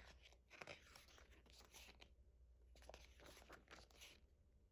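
Faint rustling and crinkling of paper and plastic as album contents are handled, with a few light clicks.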